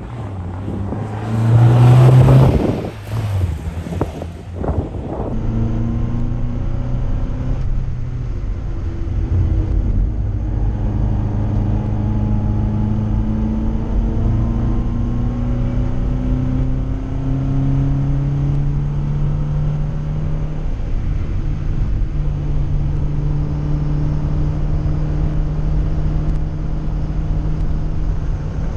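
The standard 1959 Volvo's 1.6-litre four-cylinder engine pulling away from the start of a sprint run and accelerating, heard from inside the car: a loud burst about two seconds in, then the engine note climbing slowly through the gears, with a gear change about twenty seconds in, after which it holds fairly steady.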